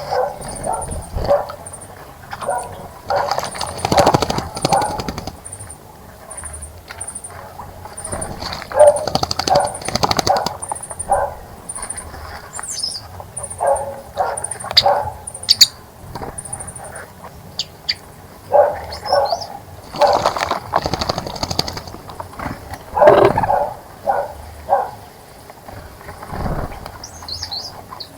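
Small birds splashing and flapping their wings in a bird bath in repeated short bursts, with brief high bird chirps and a fast, evenly repeated high call through the first half.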